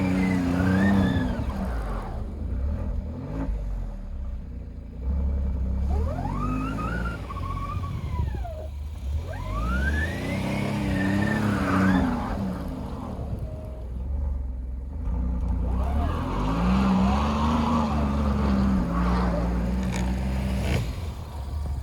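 Alfa Romeo Giulia Quadrifoglio's twin-turbo V6 revved up and down again and again, each rev rising and falling over a few seconds, as the car tries to drive out of deep snow it is stuck in.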